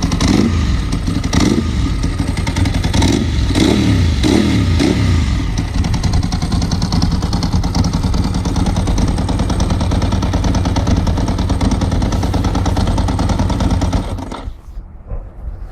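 Ducati 748's L-twin engine running through a Termignoni exhaust, its revs rising and falling several times over the first six seconds, then holding steady. The sound drops away sharply about fourteen seconds in.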